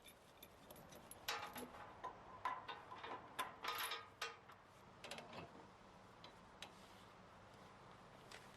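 Faint metallic clinks and rattles of steel tie-down chains being hooked to the excavator's undercarriage anchor eyes, a quick run of ringing clicks that dies away after about five seconds.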